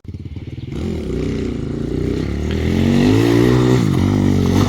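Dirt bike engine revving, climbing in pitch and loudness over the first few seconds, then dropping off and picking up again twice near the end as the throttle is blipped.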